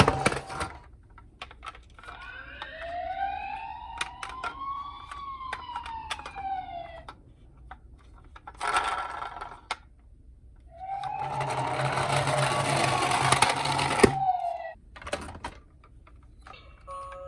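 A wailing emergency-vehicle siren, slowly rising and then falling in pitch, with scattered clicks. After a short burst of noise, a second, louder wail comes in over a rushing noise and fades out.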